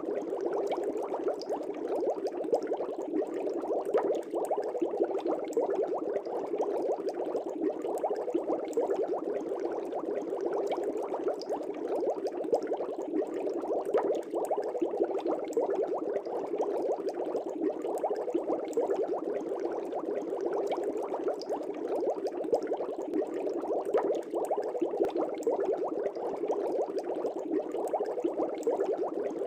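Aquarium air bubbles rising and breaking in a fish tank, a steady dense bubbling with no let-up.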